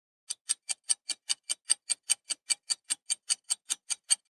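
Clock-tick countdown timer sound effect: quick, even ticking at about five ticks a second, marking the time to answer a quiz question.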